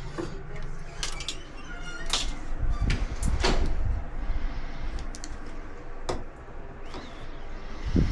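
A string of separate knocks and clicks of objects being handled, with a low rumble about two and a half to four seconds in.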